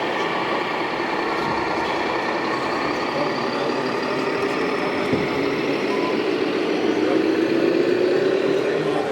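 RC model truck's diesel engine sound running, rising in pitch and getting louder over the last few seconds as it revs.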